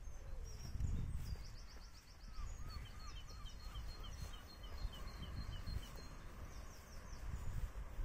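Songbirds singing in several runs of short, quickly repeated chirps, over a steady low rumble.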